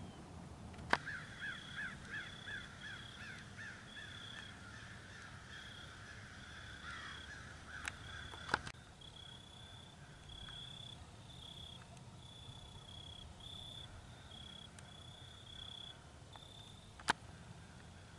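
A bird calling outdoors: a rapid series of harsh notes, about four a second, for the first several seconds, over a faint high, broken chirring that keeps on throughout. A few sharp clicks stand out, one about a second in, two near the middle and one near the end.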